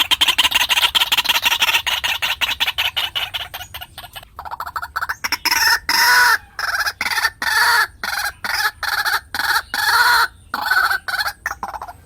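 White-breasted waterhen calling: a fast run of rapid repeated notes, then from about halfway loud separate croaking notes, about two to three a second.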